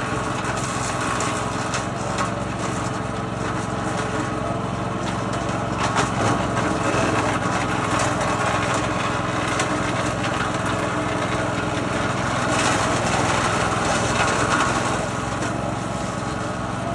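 Small petrol-engine wood chipper running steadily. It grows louder, with sharp cracks, about six seconds in and again around thirteen to fifteen seconds, as wood goes through.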